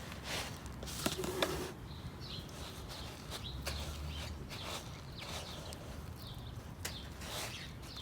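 Loose bird seed rustling as a honey-coated cardboard tube is rolled through it, a run of irregular soft scratchy rustles.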